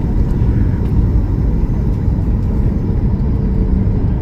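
Steady, loud low rumble of an airliner heard from inside the passenger cabin: engine and airflow noise.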